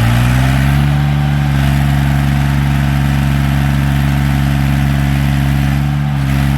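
Tractor's diesel engine held at high revs, the pitch settling at the top of a rev-up about half a second in and staying steady, with a brief small dip near the end, as when the tractor strains in a pulling contest.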